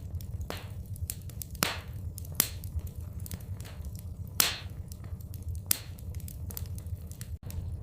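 Wood fire in a fireplace crackling, with scattered sharp pops, the loudest a little over four seconds in, over a low steady rumble.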